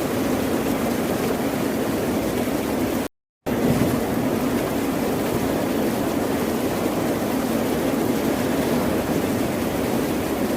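Ocean surf rushing steadily, with a brief gap of total silence about three seconds in.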